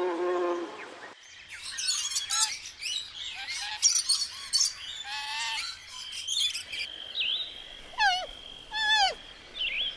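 Birds calling: dense, rapid high chirping for several seconds, then a switch to loud whistled calls that each slide steeply downward in pitch, repeated about once a second. An insect's buzz is cut off about a second in.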